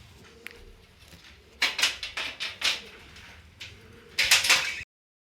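Budgies chattering in short bursts, about a second and a half in and again near the end.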